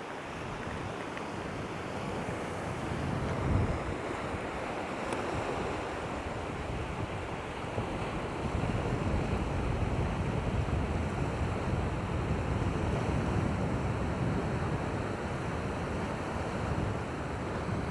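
Wind buffeting the microphone over surf on the shoreline: a steady rushing noise, heavy in the low end, that grows a little stronger about halfway through.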